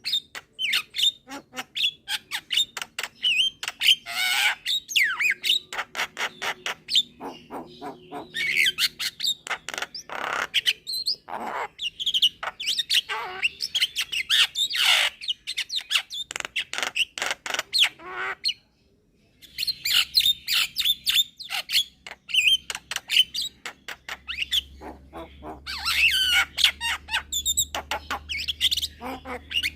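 Young Javan myna calling in a fast, continuous run of squawks, chattering and whistled notes, broken by one brief pause about two-thirds of the way through.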